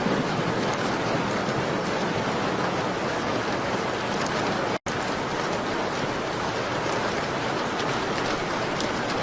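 Steady rain pattering on a window, with faint scattered ticks, broken by a split-second gap in the sound about halfway through.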